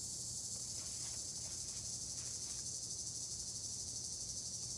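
A steady chorus of insects trilling, a continuous high-pitched, finely pulsing drone.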